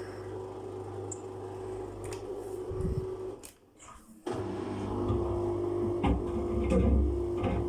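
Samsung washing machine motor and drum running as it tries to balance an unbalanced load, a steady hum with a held tone. About halfway the sound drops out briefly and comes back suddenly, louder, with irregular knocks and thuds from the drum.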